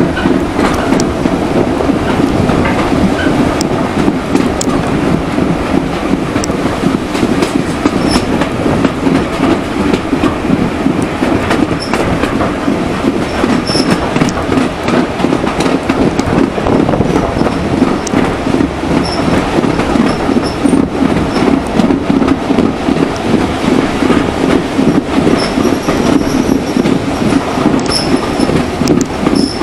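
Passenger carriage of a heritage train running along the line, heard from an open carriage window: a steady rumble of wheels on the rails with scattered clicks. Short high-pitched wheel squeals come now and then, more often near the end.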